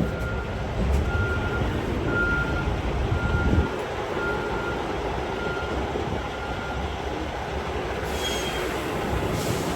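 Vehicle backup alarm beeping about every three-quarters of a second over a steady machinery rumble; the beeping stops about six and a half seconds in.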